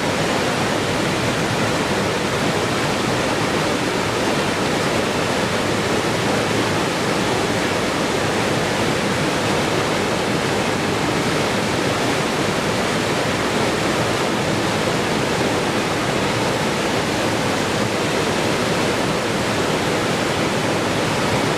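Waterfall's rushing water, a steady, even rush that does not change.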